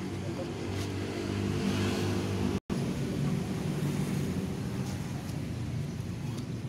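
A machine running with a steady low drone, cut off for an instant a little under three seconds in.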